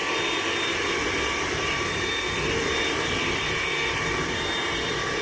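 Hoover ONEPWR Evolve Pet Elite cordless stick vacuum running steadily: an even whir with several high, steady whining tones.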